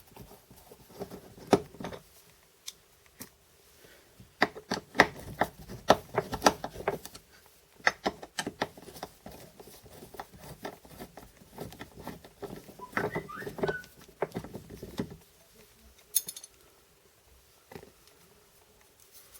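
Irregular small clicks and ticks of a Phillips screwdriver backing out the screws of a Honda S2000 soft-top roof striker, with light metallic handling of the screws and striker. A brief squeak comes about two-thirds of the way through.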